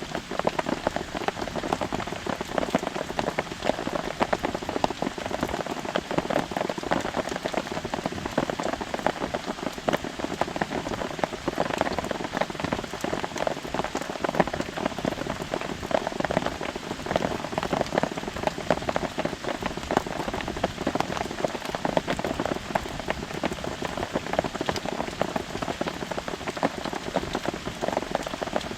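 Steady rain falling on a nylon tarp overhead: a dense, even patter of countless drops that does not let up.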